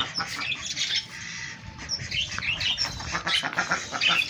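Domestic birds calling together: a jumble of short, high squawks and chirps repeating several times a second, easing briefly about a second in.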